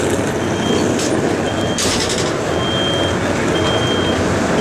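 MARC commuter train standing at the platform with its locomotive running steadily, over it a single high electronic beep repeating about once a second. A short hiss of air comes about two seconds in.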